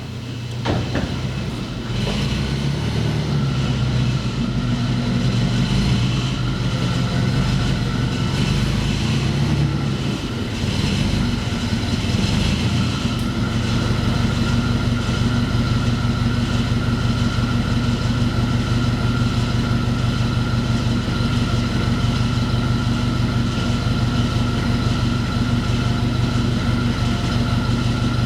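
An engine starting up about a second in and then running steadily, its note unsettled for the first ten seconds or so before it settles into a steady idle.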